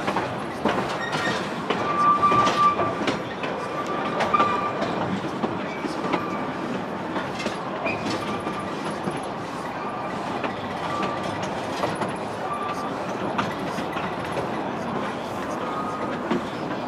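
Ride noise aboard a coal-fired narrow-gauge steam train's passenger car: a steady rumble of wheels on rail, with clicks over the rail joints. Brief high wheel squeals come and go several times as the train rounds curves.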